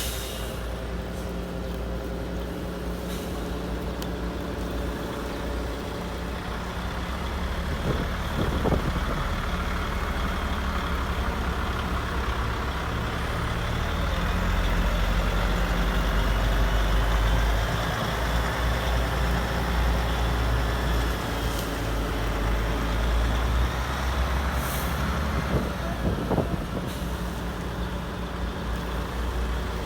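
Heavy radio-controlled construction models running: a steady low diesel-like engine drone with motor whine rising and falling, and a few short hisses like truck air brakes.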